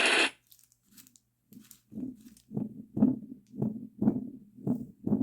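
Momcozy Little Shell portable sound machine's speaker playing its heartbeat sound: a steady, regular low beat about twice a second that starts about a second and a half in. A loud hiss-like sound cuts off just after the start.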